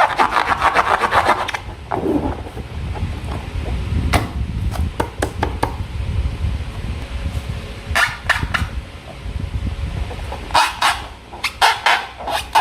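Slime being squished and handled: sticky, wet crackling clicks, a fast run in the first second and a half, then scattered clicks and short bursts.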